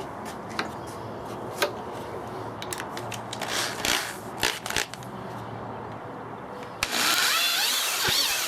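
Scattered knocks and clicks of wood being handled, then about seven seconds in an electric drill starts, its motor whine rising and dipping in pitch as it drills screw holes into wood.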